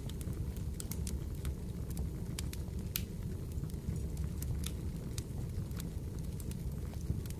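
Fireplace crackling: a steady low rumble of burning with irregular sharp pops and crackles.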